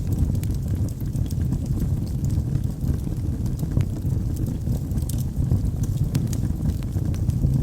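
Wood fire burning in a fireplace: a steady low rumble of flames with frequent small sharp crackles and pops from the logs.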